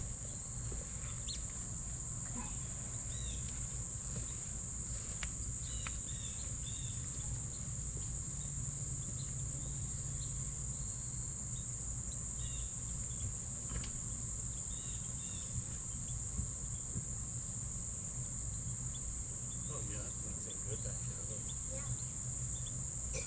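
Steady, unbroken high-pitched drone of an insect chorus, with a low rumble underneath and a few faint brief chirps and ticks over it.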